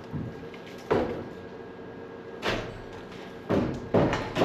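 Wooden knocks and thuds from freshly cut floor joists in old house framing: four separate sharp impacts, the last two close together near the end.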